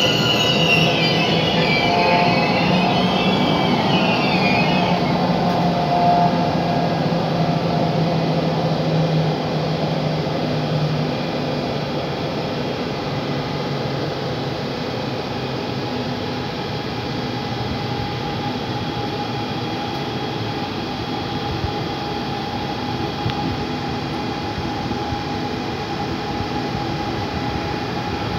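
Electric locomotive-hauled passenger train arriving at the platform. Wheels and brakes squeal in high glides for the first few seconds, and the rolling noise dies away as the train stops about ten seconds in. After that the standing locomotive gives off a steady hum.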